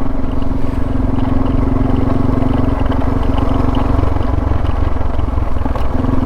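Suzuki DR650 single-cylinder thumper running under way. The engine tone holds steady, eases for a couple of seconds about four seconds in as the throttle comes off, and returns near the end.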